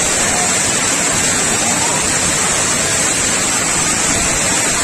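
Loud, steady rush of water pouring over an overflowing dam.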